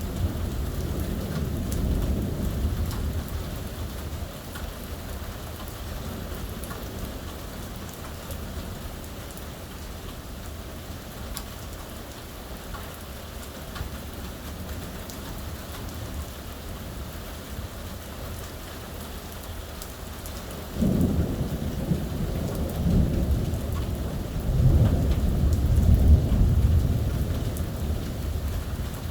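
Steady heavy rain, with thunder rumbling low at the start. About two-thirds of the way in a sudden loud thunderclap breaks, rolls on, swells again and then eases off near the end.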